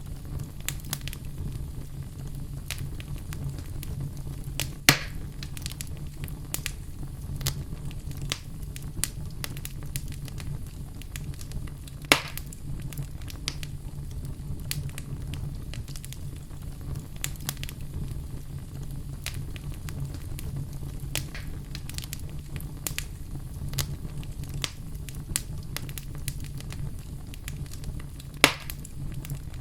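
Wood fire burning in a fireplace: a steady low rumble of the flames under constant small crackles, with three louder sharp pops from the burning wood, about five seconds in, about twelve seconds in and near the end.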